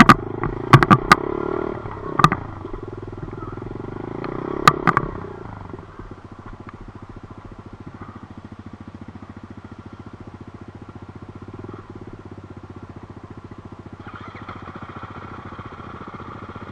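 Dirt bike engine running steadily, with several sharp clacks in the first five seconds; it settles to a quieter, even run from about six seconds in.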